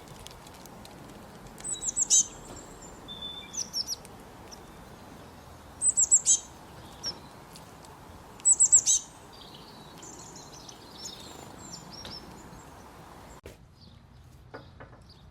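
A songbird singing: a short phrase of three or four quick, high, down-slurred notes, repeated about every three seconds, with softer chirps in between, over a steady background hiss that drops away suddenly near the end.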